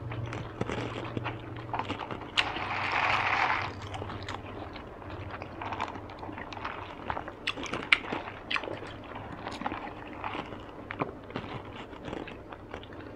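Close-miked chewing of spring rolls, with many small wet mouth clicks, and a sip through a straw. The loudest part is a breathy hiss lasting over a second, a couple of seconds in. A faint steady low hum sits underneath.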